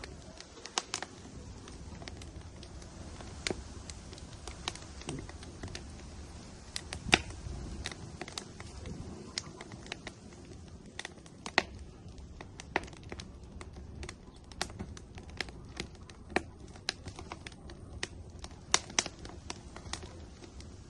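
Firewood burning in an outdoor grill, crackling with irregular sharp pops, a few much louder than the rest, over a low steady rumble of the fire.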